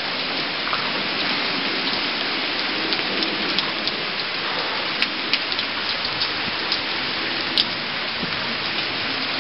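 Steady heavy rain from a hurricane, a dense constant hiss, with scattered sharp ticks of single drops close by.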